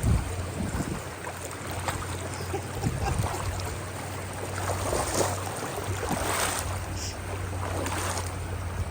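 Creek water running over rocks, with wind buffeting the microphone as a steady low rumble.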